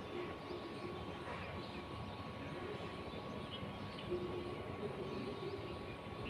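Outdoor ambience: a steady low rumble with a thin constant tone, and a few faint, short bird chirps scattered through it.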